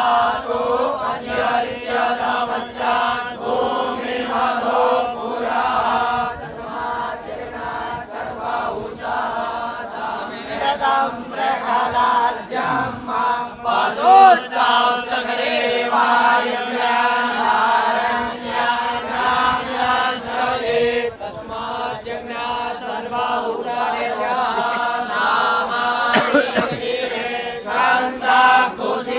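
A group of Vedic students chanting Sanskrit mantras in unison, a continuous recitation on a steady pitch.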